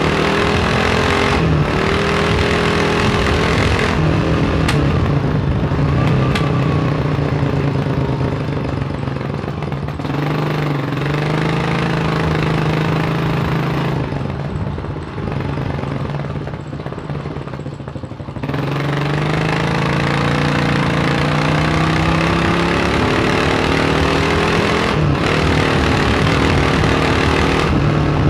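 1987 Kawasaki KLR 600's single-cylinder four-stroke engine running under way, its note repeatedly climbing and then stepping down. About halfway it goes quieter and duller for a few seconds, then pulls strongly again.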